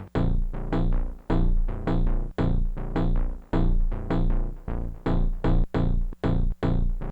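Korg Electribe Sampler ES2 playing a tech house pattern: a fast, choppy rhythm of short pitched sample stabs over a looping bass line.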